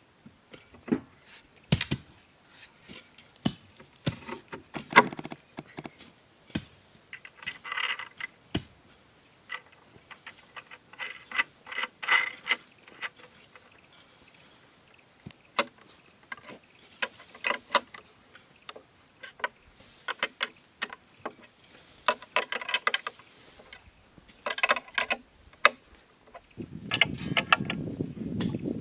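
Irregular clicks, knocks and clinks of hand work with tools and hardware, with a few short scraping passages. A steadier, louder sound comes in near the end.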